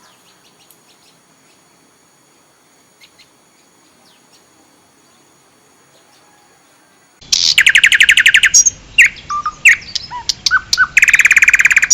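Prenjak (prinia) calling: faint scattered chirps at first, then suddenly loud about seven seconds in with a fast rattling trill of rapidly repeated notes, a string of short chirps and whistles, and another fast trill near the end.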